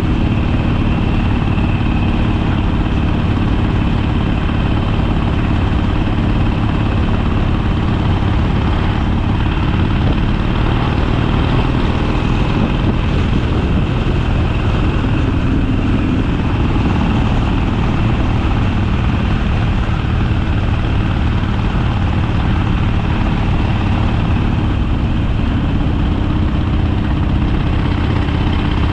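Harley-Davidson Sportster V-twin engine running steadily.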